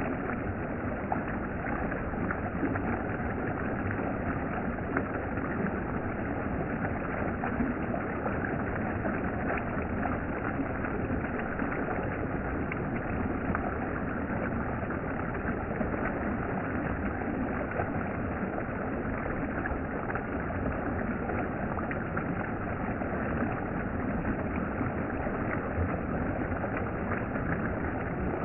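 Valley stream water running steadily.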